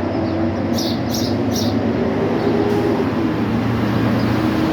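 A bird chirping three short times in quick succession about a second in, over a steady low mechanical hum.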